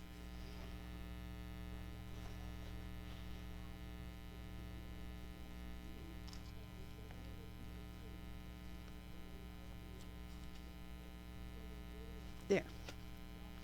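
Steady electrical mains hum with a few faint handling sounds of paper and thread.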